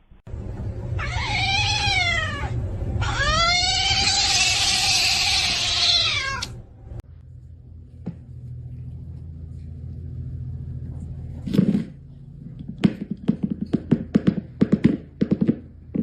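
A domestic cat meowing twice: a drawn-out meow about a second in, then a longer one of about three seconds, each rising and falling in pitch. Later comes a thump, followed by a quick run of sharp taps near the end.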